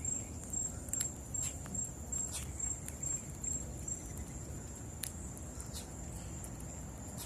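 A steady, high, slightly pulsing insect trill, over a low outdoor rumble, with scattered short sharp clicks and chips from the birds at the seed.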